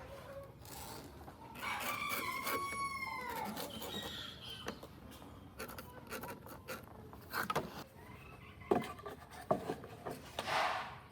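A rooster crows once, a long call about two seconds in. Later come a few scattered sharp knocks and a short rushing burst near the end.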